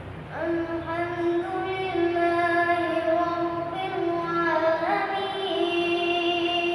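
A boy's solo voice chanting Islamic liturgy in Arabic: one long melodic phrase held for about six seconds, stepping between a few pitches before it fades out near the end.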